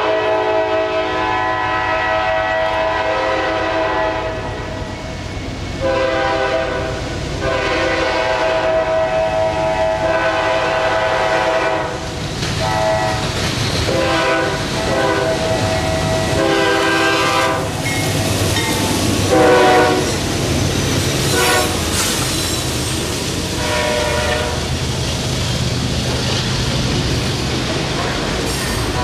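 A diesel locomotive's air horn sounds a series of long and short blasts as a double-stack container train approaches. The blasts thin out past the middle, and the rumble and wheel clatter of the passing stack cars take over.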